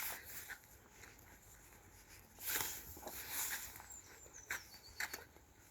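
Faint footsteps and rustling on a woodland path, with a single thin, high bird whistle falling in pitch about four seconds in.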